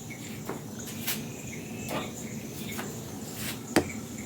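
Crickets chirring steadily in the background, with a few sharp knocks scattered through, the loudest near the end.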